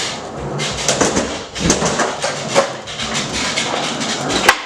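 Skateboard wheels rolling on a hard floor, with several sharp clacks of the board hitting the floor; the loudest clack comes near the end.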